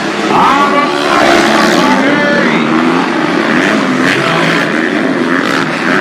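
Several motocross bike engines running hard around the track, their pitch rising and falling as the riders open and close the throttle and shift.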